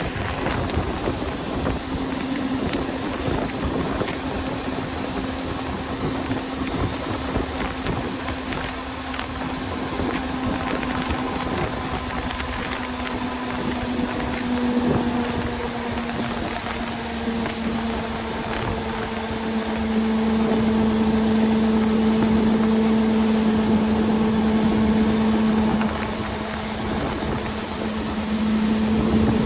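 Combine harvester running steadily while harvesting soybeans. Its hum climbs slightly in pitch about halfway through and grows louder for a few seconds about two-thirds of the way in.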